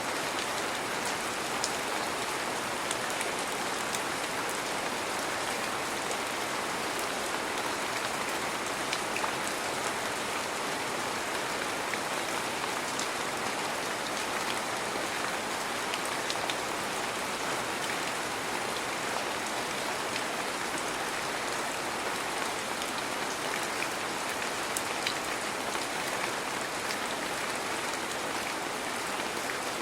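Heavy rain falling steadily, an even wash of rain noise with scattered individual drops ticking against surfaces.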